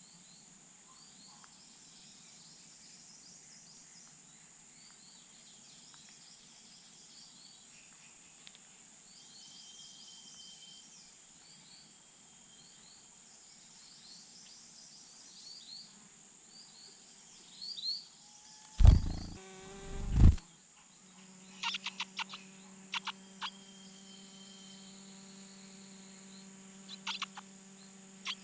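Outdoor nest-side ambience: a steady high insect-like whine with faint short chirps. About two-thirds through there are two loud low rumbling bumps, then a steady low hum with short, sharp, high chirps in quick clusters.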